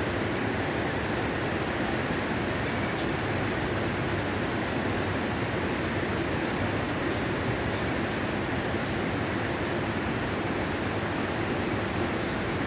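Steady rain falling, an even hiss of water on the ground.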